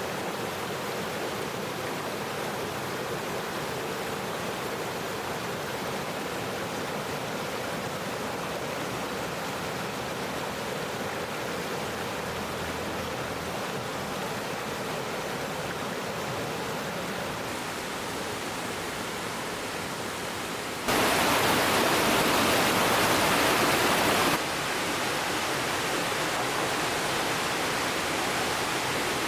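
Steady rush of flowing river water. About two-thirds of the way through it suddenly jumps louder for a few seconds, then drops back to a level a little above where it started.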